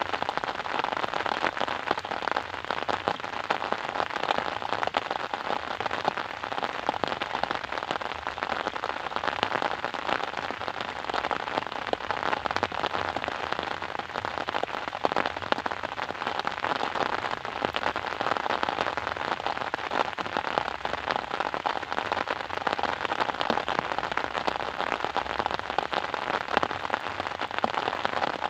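Steady rain falling: a dense, even patter of many raindrops.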